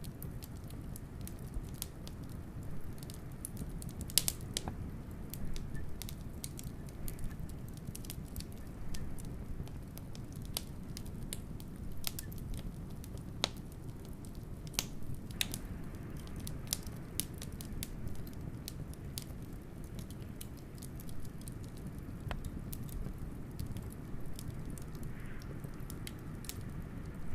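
Wood fire crackling, with irregular sharp pops and snaps, over a steady low rumble of blizzard wind.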